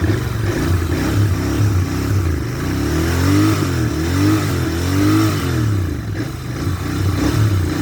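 Royal Enfield Interceptor 650 Mark II's 648 cc parallel-twin engine idling and being revved with a series of throttle blips, its note rising and falling several times, most strongly three times in quick succession in the middle, then settling back to idle.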